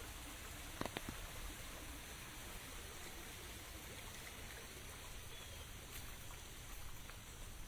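Steady rain hiss with scattered drops tapping, two sharper taps about a second in.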